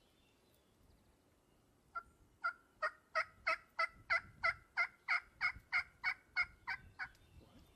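A hen wild turkey yelping: a long, evenly paced series of about sixteen yelps at roughly three a second, starting about two seconds in and stopping about seven seconds in.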